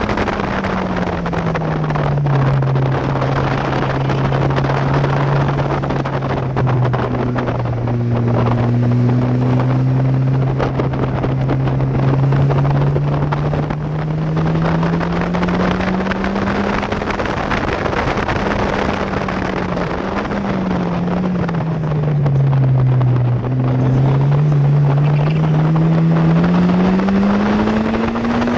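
Exocet's Mazda Miata-derived four-cylinder engine pulling the open car along, with heavy wind rush over the microphone. The engine note drops about a second in, holds steady, climbs slowly, dips sharply about two-thirds of the way through, then rises again toward the end as the driver lifts and accelerates.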